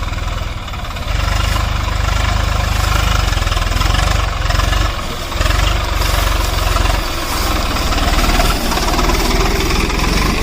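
Diesel engine running, with a low, fast, pulsing rumble; it gets louder about a second in and dips briefly a couple of times later.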